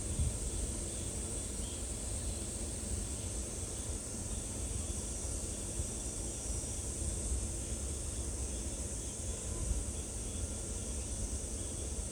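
Steady outdoor ambience: an even, high-pitched insect drone over a low, unsteady rumble.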